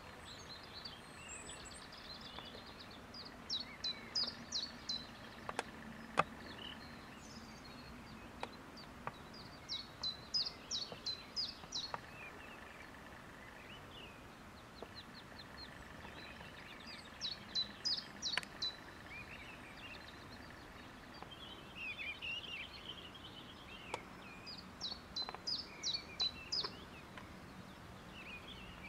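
A songbird singing a short, rapid phrase of high notes, repeated about every seven seconds, with scattered chirps from other birds in between.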